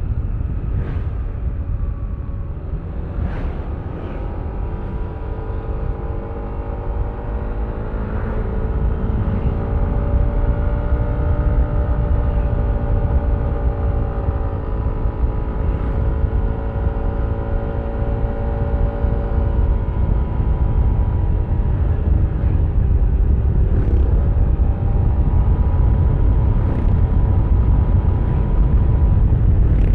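Yamaha Aerox V3 scooter's single-cylinder engine and CVT under way, its note climbing a few seconds in as the scooter accelerates and then holding steady, over a heavy low rumble of wind and road noise.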